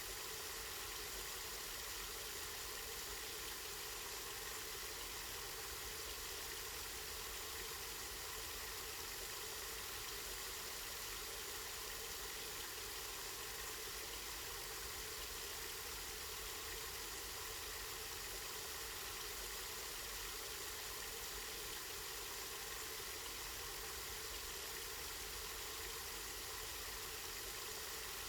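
Water from a spring flowing steadily, a constant, unbroken rush.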